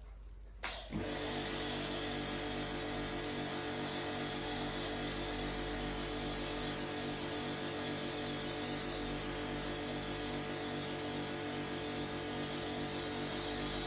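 Pressure washer switched on about a second in, then running steadily with the hiss of its water spray.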